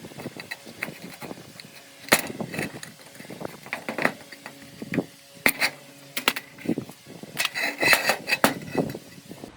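Irregular clinks and knocks of hand tools on metal parts, some ringing briefly, during repair work on a car-washer machine.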